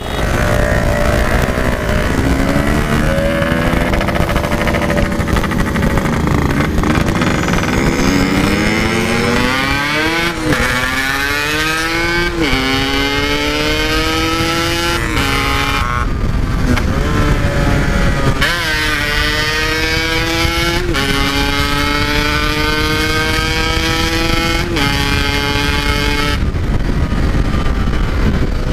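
Yamaha RX-King 135 cc two-stroke single with a Packing Power exhaust accelerating hard through the gears: its note climbs, drops sharply at each upshift about five times, and settles to a steady run near the end. Wind rushes over the microphone throughout.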